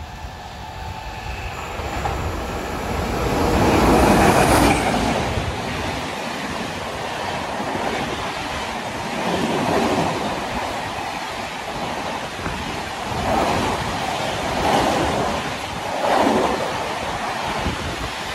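Janshatabdi Express passenger train running through a station at speed. The rush rises to its loudest about four seconds in as the head of the train goes by. Then the coaches roll past with a steady rumble that swells again and again as wheels pass over the rail joints.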